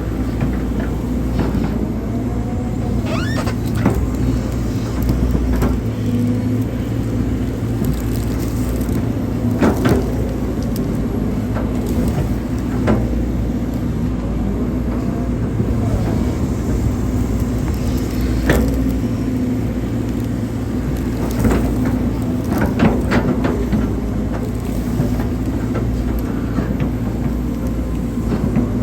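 Hydraulic excavator's diesel engine running steadily under load, with short hydraulic whines and scattered knocks and scrapes as it digs a drainage ditch.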